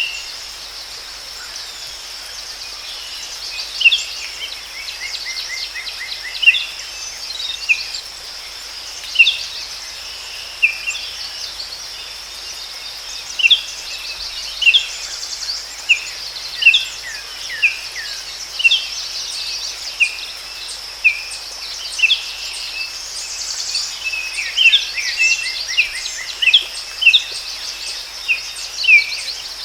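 Forest ambience: birds chirping in short calls every second or two over a steady, high-pitched insect drone.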